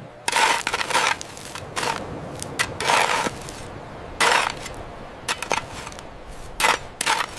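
Small metal tools and parts clinking and scraping in a series of short, irregular bursts.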